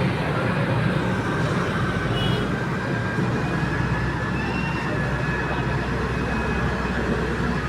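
Heavy excavator's diesel engine running steadily under work, with a faint high whine over it.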